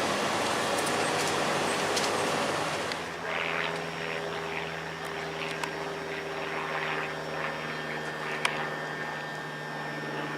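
Train at a station: an even rushing noise for about three seconds, then a steady hum with scattered higher squeaks.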